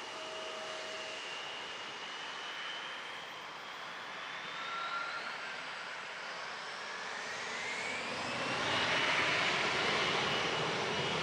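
Jet airliner passing, its engine whine rising in pitch as the noise grows louder over the last few seconds, then cutting off suddenly.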